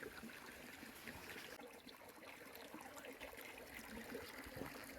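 Faint, steady running water of a mountain creek, with a few small ticks.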